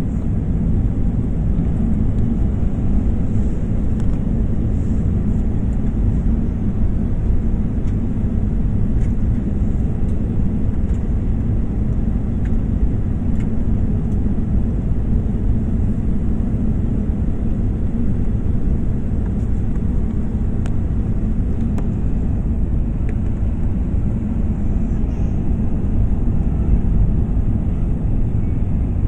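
Steady low roar of a jet airliner's engines and rushing air, heard from inside the cabin during the landing approach, with a few faint ticks over it.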